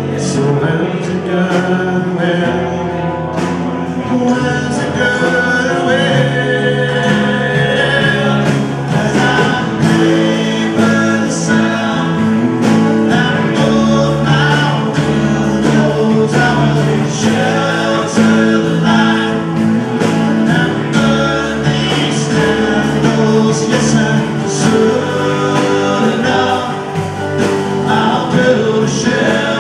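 A band playing a song live, with singing over the instruments and a steady beat.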